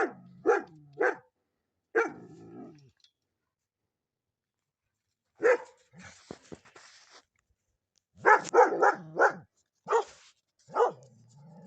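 Dog barking in short runs of sharp barks, with a pause of a few seconds in the middle. It is alert barking at a range bull walking past.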